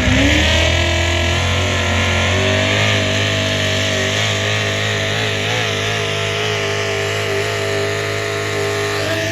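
Engine of a pulling truck or tractor held at high revs under full throttle during a pull, its pitch climbing just as it starts, then holding high with a slight waver midway.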